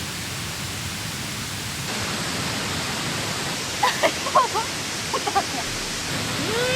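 Steady rushing of flowing water, a little louder about two seconds in, with a few short chirps around the middle and a drawn-out voice just starting near the end.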